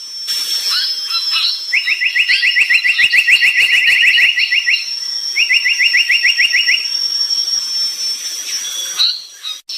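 Brown tali pocong songbird singing: scattered short chirps and two fast rattling trills of rapidly repeated notes, the first about three seconds long, the second shorter, over a steady high-pitched whine.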